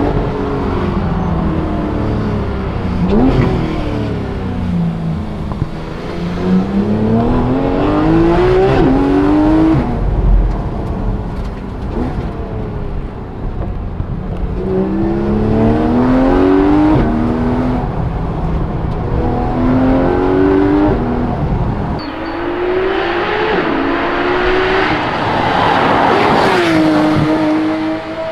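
Porsche GT3 RS 4.0-litre flat-six, heard from inside the car, revving up through the gears several times with quick PDK upshifts and falling back between pulls. The last pull climbs highest, the engine screaming up the revs.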